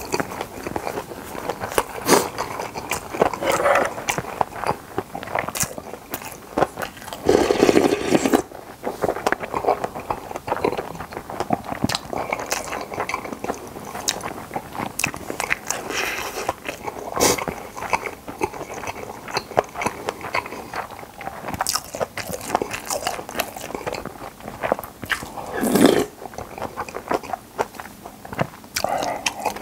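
Close-miked mouth sounds of eating spicy boneless chicken feet and Chinese glass noodles: wet chewing and biting with many sharp little clicks. Two longer, louder stretches stand out, about seven seconds in and near the end.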